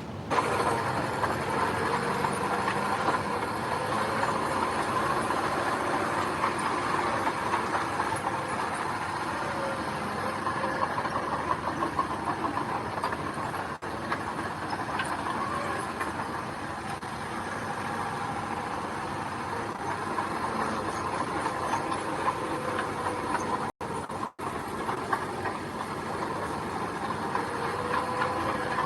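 Heavy diesel earthmoving machinery running steadily, with a faint whine over the engine noise and brief dropouts in the sound about halfway through and near the end.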